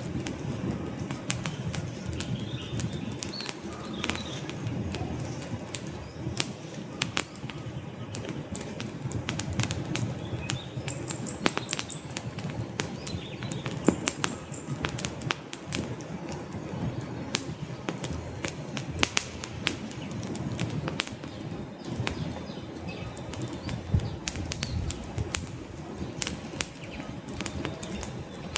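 Wood fire burning in a fireplace: dense, irregular crackles and pops over a low, steady rumble of flames.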